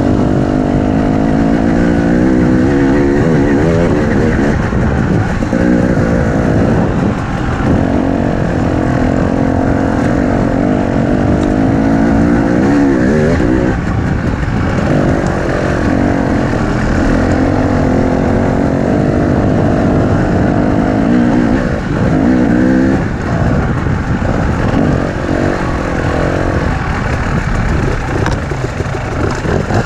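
Enduro motorcycle engine being ridden hard, revving up and falling back again and again with the throttle and gear changes.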